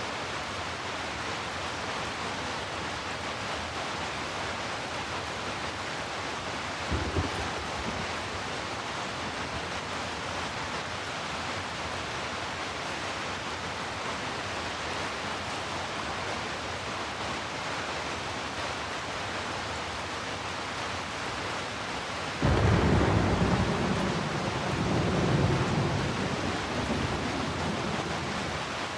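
Steady heavy rain with thunder: a short low rumble about seven seconds in, then a longer, louder roll of thunder in the last third that swells twice before easing off.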